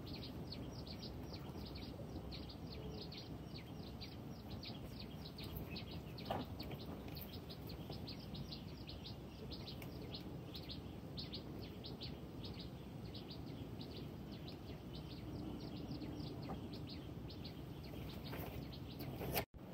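A bird chirping over and over in short, high notes several times a second, above a steady low rumble of outdoor background noise; the sound drops out briefly near the end.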